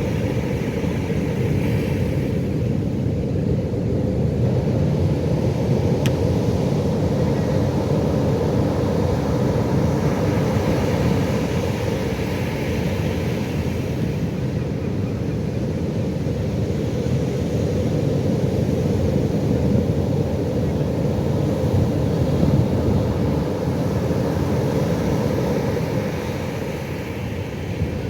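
Pacific Ocean surf: a steady low rumble of breaking waves that rises and eases slowly every several seconds.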